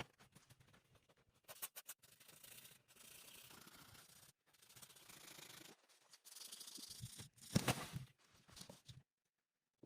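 A series of rough scraping or rubbing strokes, each about a second long, with a sharper, louder hit about three-quarters of the way through.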